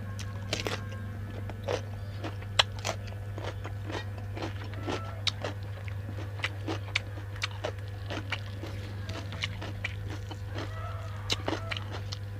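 Close-up chewing and biting of wild duck meat and bone: irregular crunches, cracks and wet mouth clicks, over a steady low hum.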